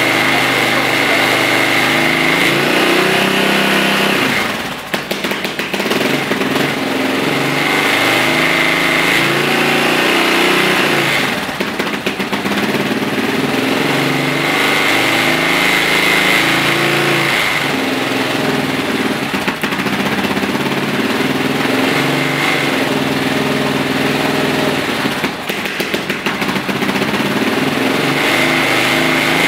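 Yamaha TT600R's air-cooled single-cylinder four-stroke engine running after a cold kick start. As the choke is pushed in, the engine stumbles and sags toward stalling three times, then picks up again when the choke is pulled back out.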